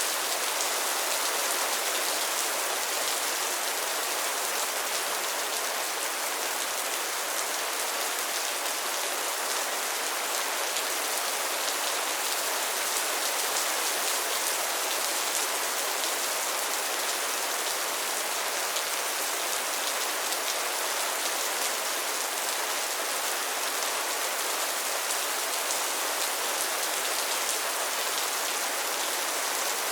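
Steady rain falling on a pond's water surface and lily pads: a dense, even patter of countless fine drops.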